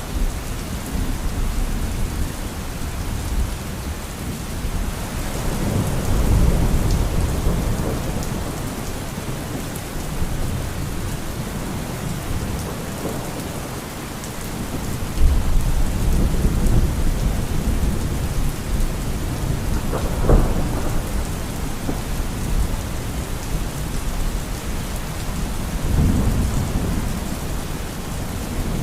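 Steady rain falling during a thunderstorm, with low rolls of thunder swelling and fading several times, the strongest about a third and halfway through.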